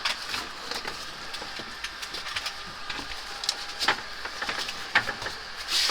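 Irregular clicks, taps and rustles of hands handling air-conditioner piping, insulation and drain hose.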